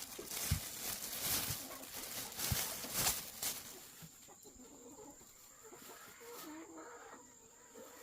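Chickens clucking, with rustling and a few sharp thumps in the first half.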